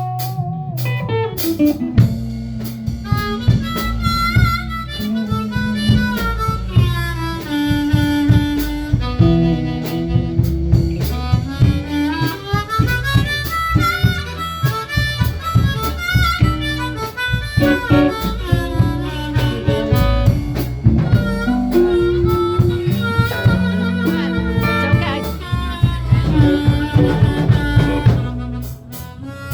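Instrumental break in a song: a lead melody with bent, wavering notes over a steady guitar, bass and drum backing.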